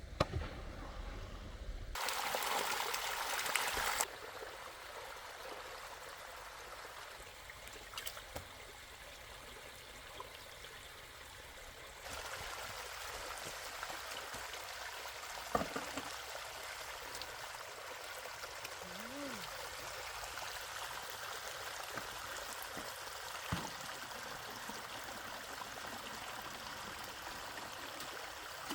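Water running and trickling steadily, a little louder from about 12 s on, with a few faint knocks.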